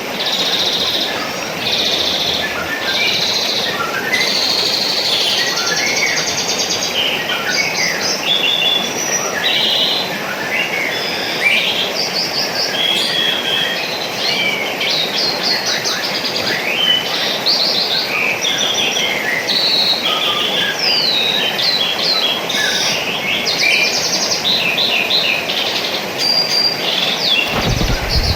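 Many small birds chirping and trilling in quick overlapping calls over a steady rush of water. A couple of low thumps come near the end.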